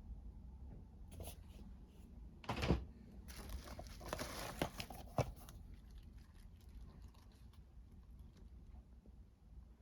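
Packaging being handled: rustling and crinkling with a string of clicks and a thump about two and a half seconds in, then quieter handling noise.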